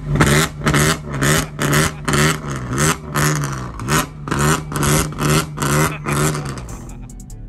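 A pickup truck's engine revved hard through a loud exhaust in quick throttle blips, about three a second. It settles just before the end.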